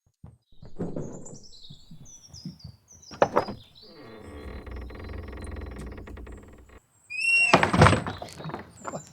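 A shed door rattling and knocking, then creaking steadily on its hinges for a few seconds, followed by a loud thump about two-thirds of the way through. Birds chirp throughout.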